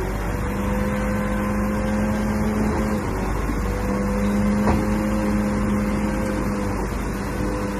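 Bulldozer's diesel engine running steadily, its pitch dipping briefly about three seconds in before picking up again, with one sharp knock a little before the five-second mark.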